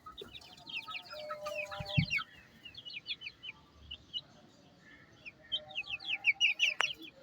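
Chickens clucking amid a dense run of short, high, falling chirps, busiest at first and again near the end, with a low thump about two seconds in.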